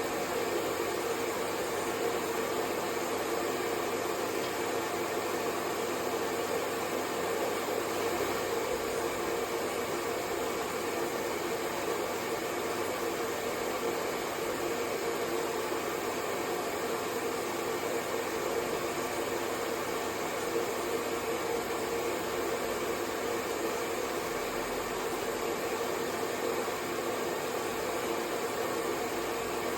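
Hair dryer blowing steadily: an even, unchanging whoosh of fan and air with a faint hum, played as white noise for a baby's sleep.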